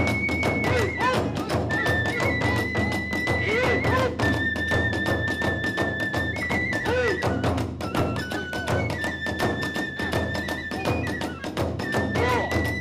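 Kagura festival music: a bamboo transverse flute holding long high notes and stepping between pitches, over fast, driving drumming and clashing hand cymbals.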